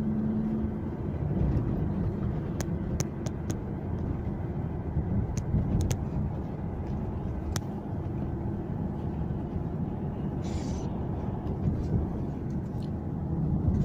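Inside a moving car: a steady low rumble of engine and tyre noise, with a few light clicks and a brief hiss about ten seconds in.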